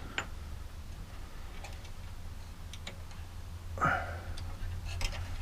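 Scattered light metal clicks and ticks from hand-fitting small parts and a feed screw into a scroll saw's blade head, over a steady low hum.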